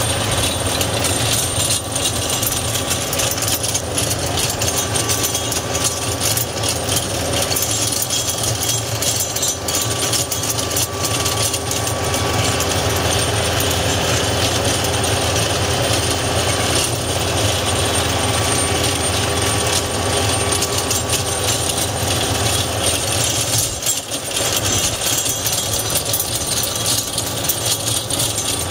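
Diesel engine of a TYM T574 hydrostatic tractor running steadily under load, driving a 6-foot Bad Boy PTO rear-tine tiller whose tines churn through garden soil with a rough mechanical clatter.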